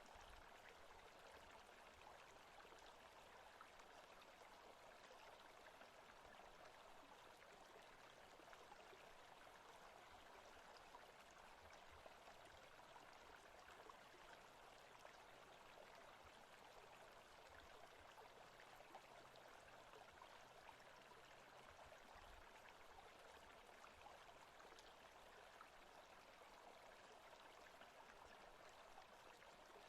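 Faint forest ambience of a stream running, a steady even rush of water.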